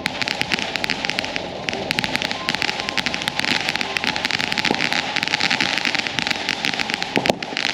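Lit firework hissing and crackling steadily: a dense run of rapid small crackles over a continuous hiss.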